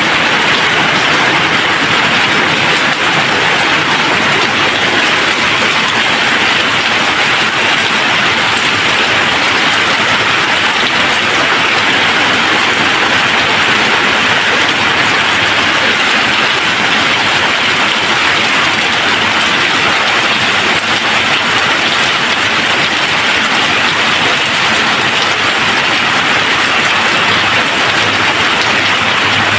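Steady rain falling: a constant, even hiss of rain with no thunder and no distinct drops standing out.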